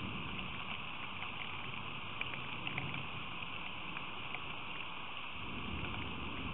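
Steady rain falling, with scattered single drops striking close to the microphone; a low rumble swells near the end.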